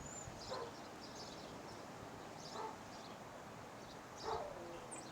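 A dog whimpering and yipping faintly, three short calls about two seconds apart, the last one trailing down in pitch. Birds chirp in the background.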